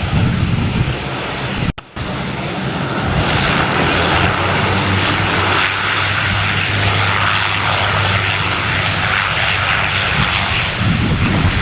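Bombardier Dash 8 Q400's twin PW150A turboprop engines running at takeoff power: a steady propeller hum under a high whine that rises about three seconds in and then holds. The sound drops out briefly near two seconds in.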